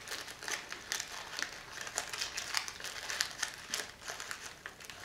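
A plastic potato crisp packet crinkling as it is handled, in quick, irregular crackles.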